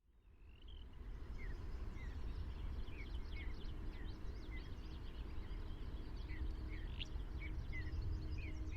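Spring outdoor ambience: several small birds chirping and singing in quick short notes over a steady low rumble, fading in at the start.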